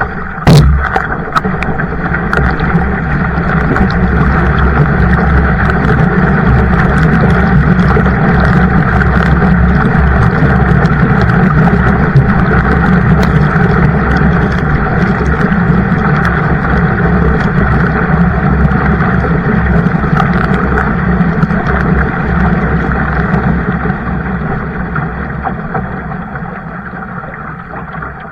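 Loud, steady rush of water and wind noise from a kayak moving along under paddle, with a sharp knock about half a second in. The rush builds over the first few seconds and eases off near the end.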